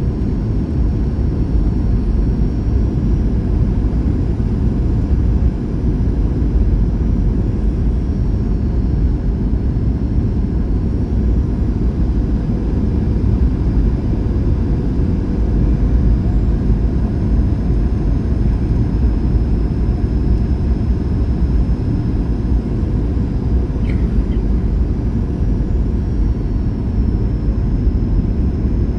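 Steady cabin roar inside a Boeing 737-800 on approach, heard from a rear window seat. It is the noise of the CFM56 engines and the airflow, heaviest in the low end, with a faint steady whine above it.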